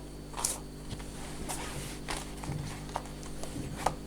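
Objects being handled, with a few scattered light knocks and brief rustles over a low steady hum.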